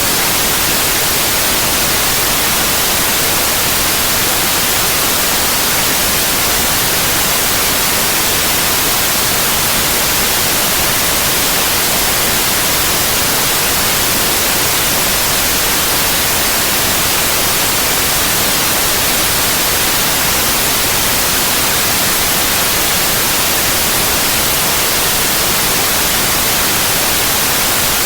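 Synthetic white noise: a steady, unchanging hiss spread evenly across all pitches, strongest in the high end.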